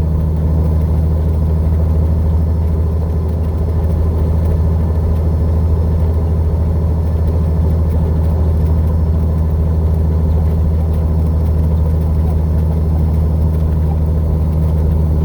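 Semi truck's diesel engine pulling steadily uphill under load in a low gear, a constant low drone heard from inside the cab.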